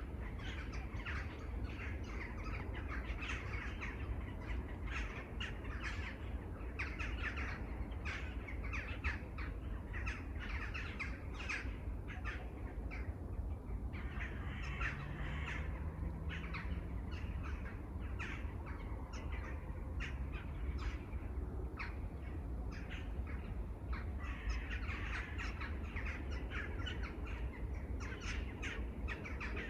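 Many crows cawing, short calls overlapping thickly throughout, with smaller birds chirping among them. A steady low rumble runs underneath.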